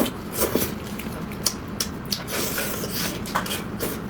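Close-miked wet chewing and lip smacking of soft, saucy braised chicken, with irregular short crackles and clicks.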